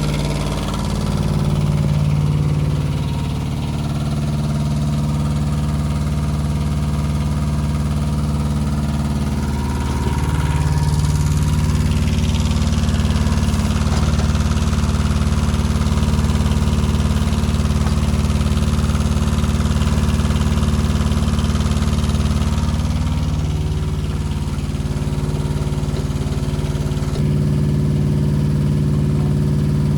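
Kubota KH-007 mini excavator's diesel engine running steadily, its note changing a few times as the load on it shifts.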